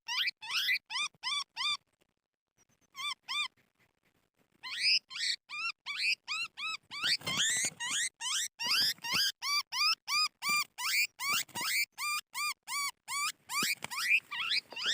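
An animal's short, high-pitched calls repeated about three times a second, each rising then falling in pitch. They break off for about two seconds and then start again, faster and overlapping.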